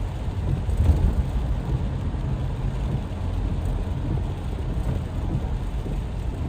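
Steady rainstorm noise: rain with a heavy low rumble, a little louder about a second in.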